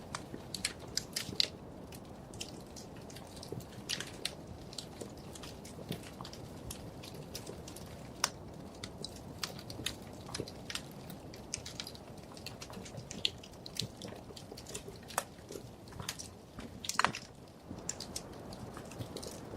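Wood fire crackling in a fireplace: irregular sharp pops and snaps over a low steady rumble, with a cluster of louder pops about seventeen seconds in.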